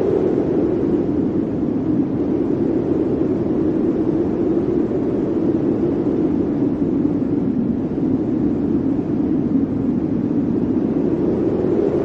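Blizzard wind blowing steadily, a deep rushing roar that sinks a little in pitch midway and rises again near the end.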